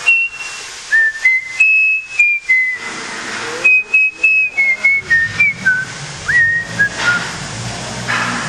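A person whistling a tune in short, clipped notes that step up and down in pitch. A low steady hum comes in about halfway through.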